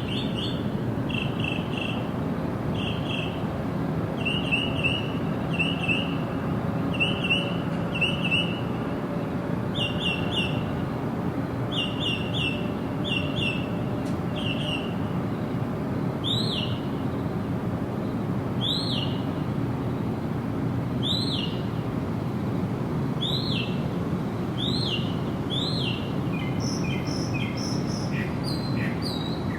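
Songbirds chirping over a steady low background noise. In the first half a bird repeats quick clusters of short chirps. From about halfway, single down-sweeping chirps come roughly every two seconds, and a second bird adds higher, rapid notes near the end.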